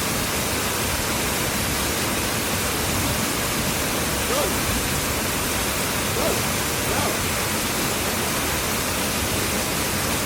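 Du Gia waterfall rushing steadily: an even, unbroken wash of falling water.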